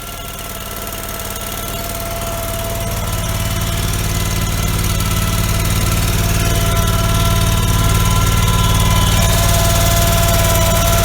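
Allmand tractor backhoe's engine running at idle just after start-up, getting louder over the first few seconds and then steady.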